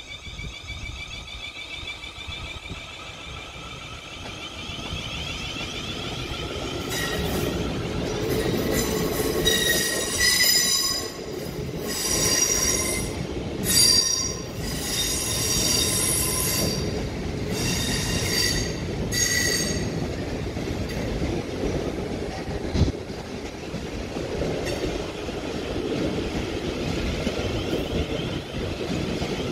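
Siemens Desiro electric multiple unit passing on the rails: a whine from its traction motors shifting in pitch at first, then loud, high wheel squeal that comes and goes for about thirteen seconds, over a steady rumble of wheels on track with one sharp knock later on.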